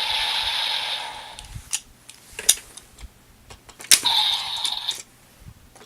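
Evolt Driver toy belt's electronic sound effect fading out, then a few sharp plastic clicks from the toy driver and its full bottles being handled, and a second short burst of the belt's electronic sound about four seconds in.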